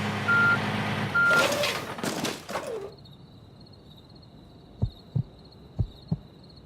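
Animated-cartoon sound effects: two short, high, steady electronic beeps about a second apart, then a whooshing sweep, then four soft, low thuds.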